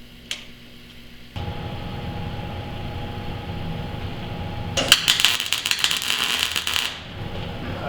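A machine-tool motor switches on with a click and runs steadily. For about two seconds midway a loud, dense metallic rattling rides over it, then the steady running carries on.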